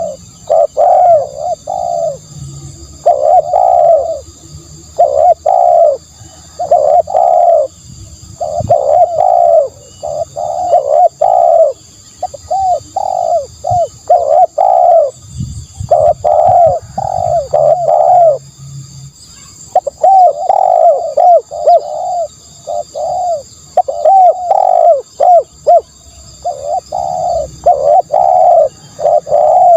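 Spotted dove cooing loudly and repeatedly: groups of several quick coos in phrases, with short pauses between them. A faint, steady high whine runs underneath.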